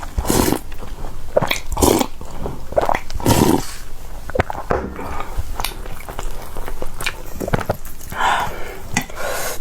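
Eating close to the microphone: a person biting into and chewing food, in irregular bites and chews.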